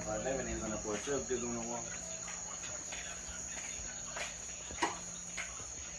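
Steady high-pitched drone of an insect chorus, with a voice in the first two seconds and a sharp click about five seconds in.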